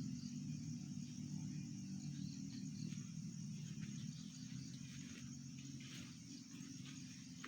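Outdoor nature ambience: a steady high insect chirring over a low continuous hum, slowly fading, with a few faint clicks or rustles in the second half.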